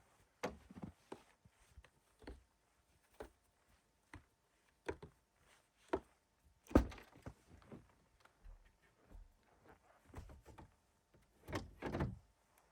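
Irregular thuds and crunches, the loudest a sharp thud about seven seconds in, with a longer run of crunching near the end.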